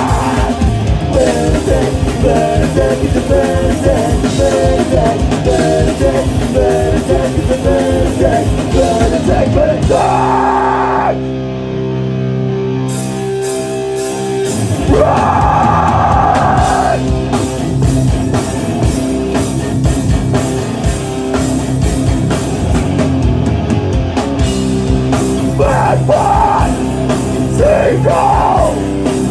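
A punk rock band playing live, with electric guitars, drums and sung vocals. About eleven seconds in, the drums and cymbals drop out for a few seconds, leaving held guitar tones, before the full band comes back in.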